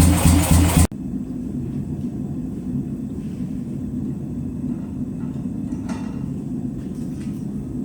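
A loud machine hum, pulsing several times a second, cuts off abruptly about a second in, leaving a steady low rumble with a few faint clinks near the end.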